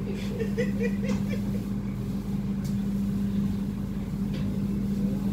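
Passenger train running with a steady low hum as it slows toward a station stop, with a voice faintly heard during the first second.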